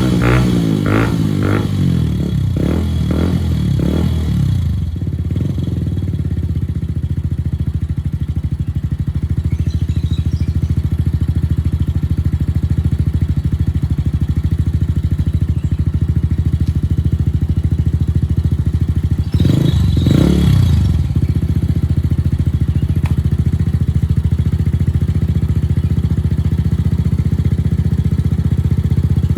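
Off-road motorcycle engine revved in a series of quick blips for the first few seconds, then idling steadily, with one more brief rev about twenty seconds in. The bike is running again after a repair for a no-start fault.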